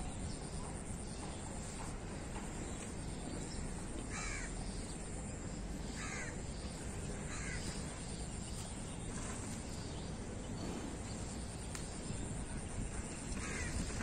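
A bird calling in short calls, three in the middle and one more near the end, over steady outdoor background noise.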